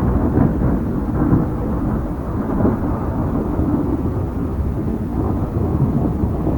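Loud, continuous low rumble of a severe storm, with no break or steady tone in it.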